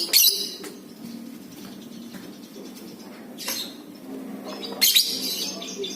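Lovebird calling: a sharp shrill call right at the start, another about three and a half seconds in, and a longer run of rapid chattering near the end, over a steady low hum.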